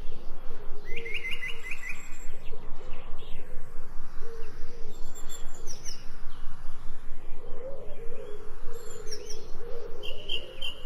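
Forest birdsong: several birds chirping, with short rapid trills at different pitches a second in, around five to six seconds in, and near the end, over a continuous lower warbling call.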